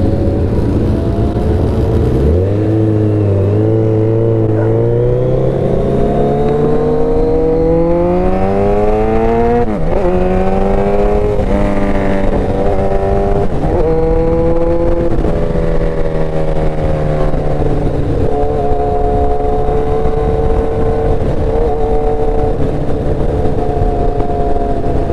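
Motorcycle engine accelerating hard, its pitch climbing for several seconds and then dropping at each upshift, about ten seconds in and several times after. It then settles to a steady cruise, with the revs falling near the end.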